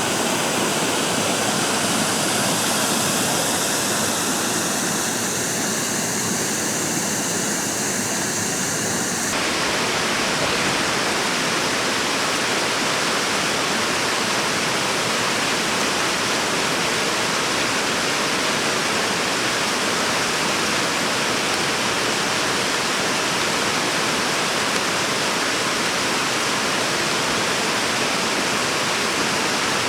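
Mountain stream water rushing steadily over rocks. Its sound shifts abruptly about nine seconds in, with more low rumble afterwards.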